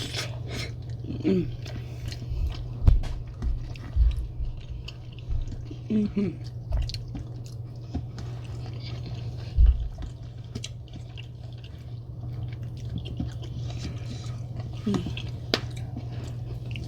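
Close-miked eating of a Cajun seafood boil: chewing and wet mouth sounds with small clicks, and a few heavy low thumps. A steady low hum runs underneath.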